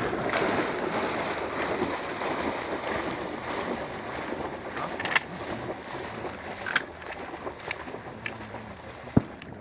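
Water sloshing and splashing, slowly fading, with a few sharp clicks or knocks in the second half.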